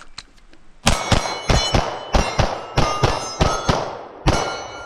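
A pistol fired in five quick pairs of shots and a last single shot, double taps on five targets, with steel targets ringing after the hits. The string begins about a second in and ends near the end.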